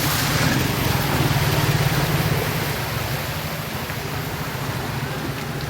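Floodwater rushing in a flooded street over the steady hum of vehicle engines running in stalled traffic, a little louder in the first two seconds.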